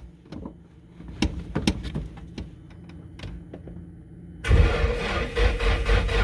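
A few faint clicks, then about four and a half seconds in a starter motor begins cranking the freshly rebuilt Nissan SR20DET four-cylinder turbo engine in a steady, even rhythm without firing. The crank sounds weak: a low battery reading about 10.5 volts.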